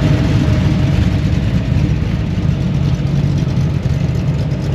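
A car engine running steadily at low revs, a loud, deep, even sound that eases slightly after a couple of seconds.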